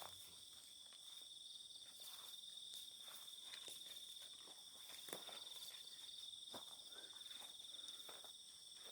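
Crickets and other night insects chirring in a steady, high, unbroken drone. Faint scattered rustles and crunches, like footsteps in undergrowth, come through now and then.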